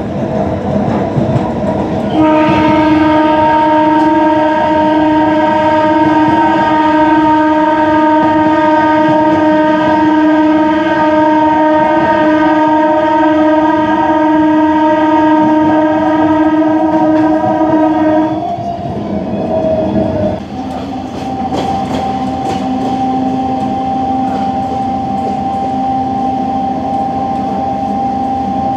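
Train horn sounding one long steady blast of about sixteen seconds over the rumble and rattle of a moving MEMU electric train. The horn stops abruptly, and a fainter steady tone follows for the rest.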